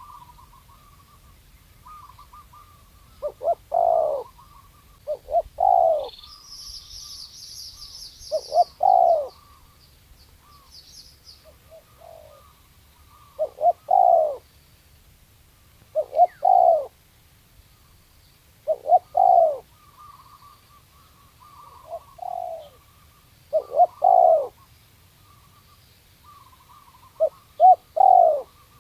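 Spotted dove cooing, a loud low coo phrase repeated every few seconds, about nine times. A small bird chirps high and fast for a few seconds, starting about six seconds in.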